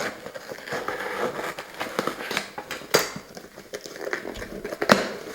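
A cardboard box and its packaging being worked open by hand, with continuous crinkling and crackling and a few sharp snaps, the loudest near the end.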